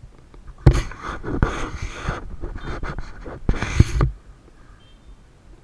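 A mountain biker breathing hard close to the microphone: three heavy breaths, the first about a second long, with a few sharp knocks.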